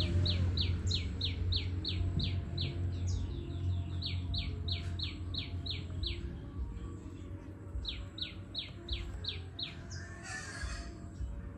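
A bird calling in fast runs of short, evenly repeated notes that each slide down in pitch, about three or four a second, with a pause partway through. A steady low hum runs underneath.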